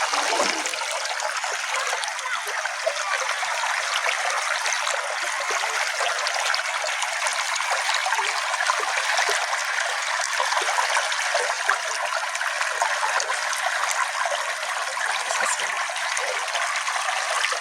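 Small brook flowing steadily: a dense, even rush of running water speckled with many tiny splashes and drips.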